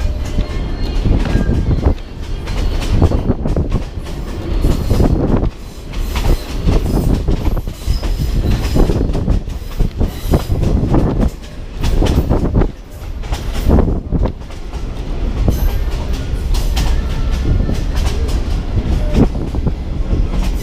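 Passenger train running, heard from inside a carriage: a heavy rumble of wheels on the rails that swells and dips, with many irregular knocks and clanks. The track is rough and the carriage is shaking hard.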